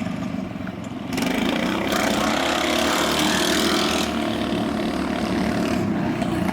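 Go-kart's single-cylinder 420cc Predator engine, its governor removed, running and revving up about a second in, then holding at higher revs.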